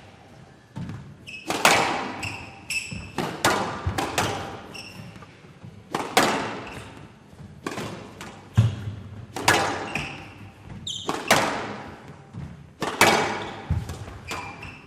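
A squash rally: the ball struck hard by rackets and smacking off the walls every half second to a second, each hit ringing briefly in the court. Shoes squeak on the court floor in short high chirps several times.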